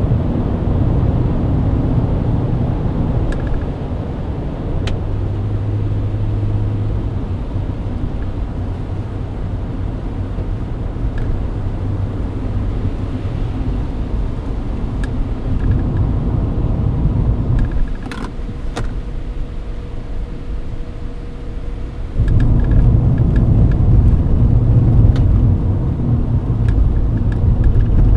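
Mercedes-Benz W124 driving at highway speed in the rain: a steady low engine, tyre and road rumble. It drops quieter for a few seconds past the middle, then comes back louder about six seconds before the end, with a few faint ticks scattered through.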